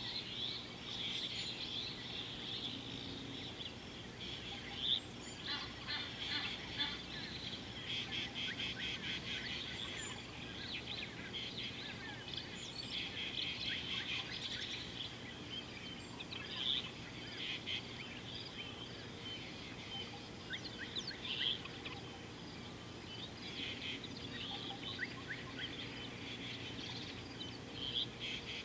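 Several wild birds chirping and calling, with fast rattling trills and short high chirps repeating throughout, over a faint steady hum.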